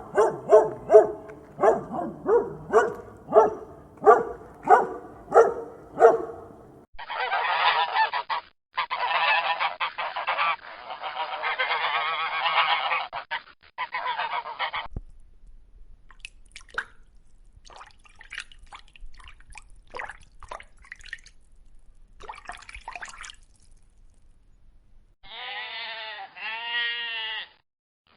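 Geese honking in a quick, regular series of about two calls a second, followed by a stretch of dense hissing noise, then faint scattered clicks. Near the end a goat starts bleating.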